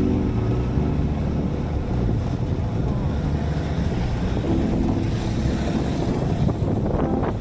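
Wind buffeting the microphone of a moving motorbike, over the steady running of its engine.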